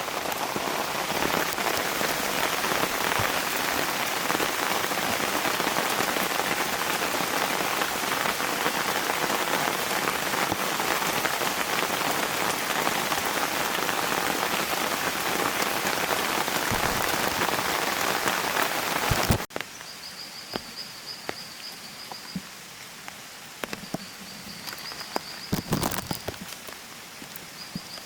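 Steady heavy rain falling on surfaces for about the first nineteen seconds, then cutting off suddenly. After that, a much quieter woodland background: a thin high trill that comes and goes, with scattered clicks and knocks.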